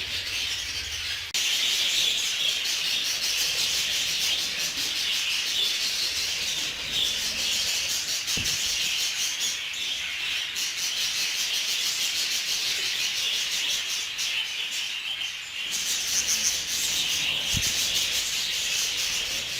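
A flock of budgerigars chattering and chirping together, a dense, continuous high twitter.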